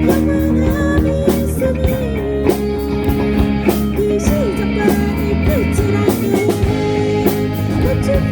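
Rock band playing without vocals: a guitar lead with repeatedly bent notes over bass and drums.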